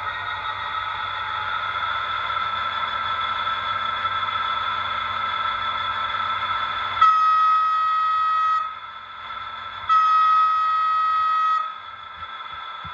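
Trix HO-scale Class 77 model diesel locomotive running with a steady pitched drone, then sounding its horn twice, each blast about a second and a half long, from its onboard sound.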